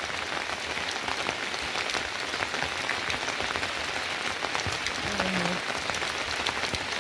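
Steady rain falling, a dense patter of many drops hitting a surface.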